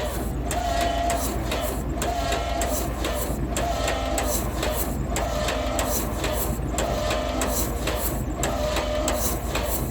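John Deere A's starter cranking the cold two-cylinder engine over slowly without it catching, the cranking rising and falling in an even rhythm about once a second as it works against each compression stroke. The owner takes the engine to be flooded.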